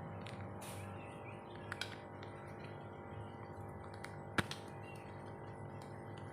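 White-rumped shama giving short chirps and clicks, with one sharp click about four and a half seconds in, over a steady low hum.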